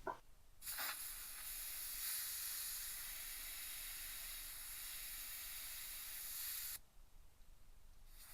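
Air hissing steadily out of a car tire's valve stem for about six seconds, then cutting off suddenly: the overinflated tire being let down toward 32 psi. A short click comes just before the hiss starts.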